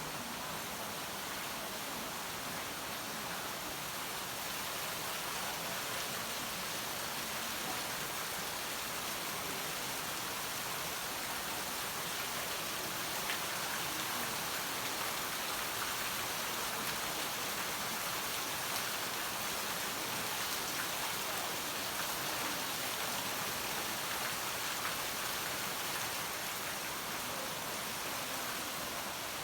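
Steady rainfall: an even hiss of rain with faint scattered drops pattering on surfaces.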